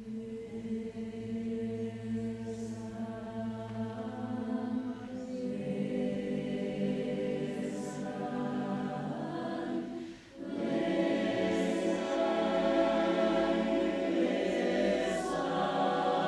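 Choir singing sustained chords, with a brief break about ten seconds in before it comes back fuller and louder.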